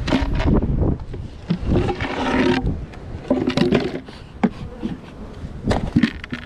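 Wind buffeting the microphone, with a run of knocks and scrapes from hive equipment being handled.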